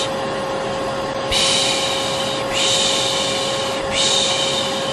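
Vacuum cleaner running steadily, its motor holding a constant hum, with a person's soft 'shh' shushing laid over it in a slow rhythm: about three long shushes, each a little over a second. This is a white-noise lullaby mix for settling a baby to sleep.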